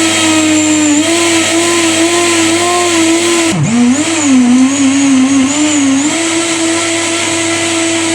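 Countertop blender motor running at speed, blending fruit into juice. Its pitch drops sharply about three and a half seconds in and wavers for a couple of seconds as the load in the jar shifts, then returns to a steady hum.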